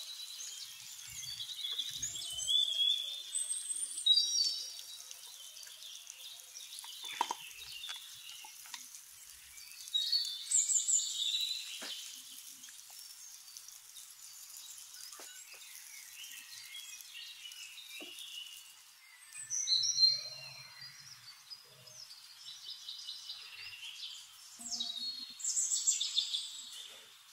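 Small birds chirping and twittering in several short bursts of high calls, over a faint steady hiss.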